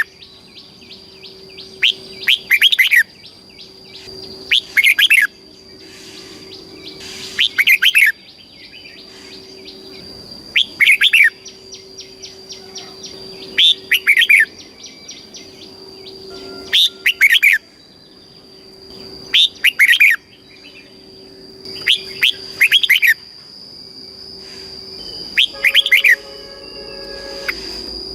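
Red-whiskered bulbul singing: short loud warbled song phrases repeated about every two and a half seconds, over a faint steady high-pitched tone.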